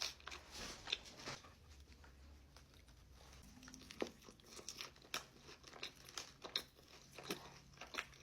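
A person chewing and biting crispy fried food close to the microphone, with scattered soft crunches and mouth clicks.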